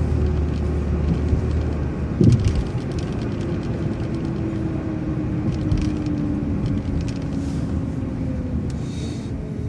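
City transit bus running along the street, its engine and road noise a steady low rumble. A faint whine falls slowly in pitch through the middle, as the bus slows for a stop. A short knock comes about two seconds in.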